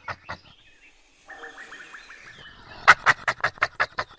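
An animal calling in a rapid series of short, squeaky pulses, about four a second. The calls break off into a brief lull, a steadier wavering call follows, and the pulses come back louder about three seconds in.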